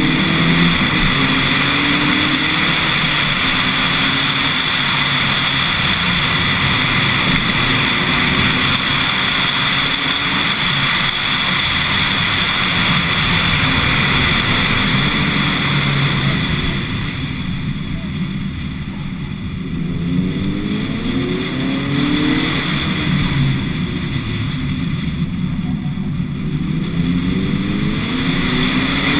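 Lotus Elise S1 111S's 1.8-litre four-cylinder engine, running on bioethanol, pulling up a mountain road, its revs rising through the gears. Wind rushes over the outside-mounted camera. Twice in the second half the engine eases off and goes quieter, then climbs in pitch again as the car accelerates.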